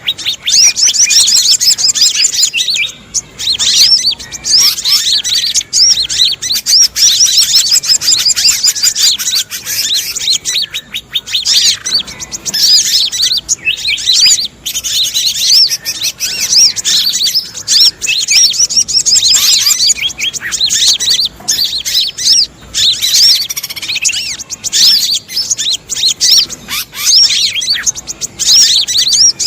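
Bird-trapping lure recording: sogon (sogok ontong) calls mixed with the noisy alarm-like chatter of many small birds, a dense run of rapid, high, overlapping chirps with only brief gaps.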